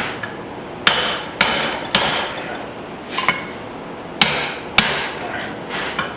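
Hammer blows on a hot spring-steel hatchet head at the anvil: three strikes about half a second apart, a lighter tap, then two more strikes. Each strike rings briefly.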